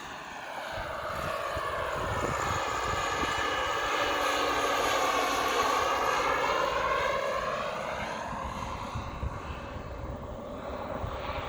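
Giant-scale radio-controlled Bell 429 helicopter flying past: its whine slides down in pitch to the middle of the pass and climbs back up, loudest about halfway through.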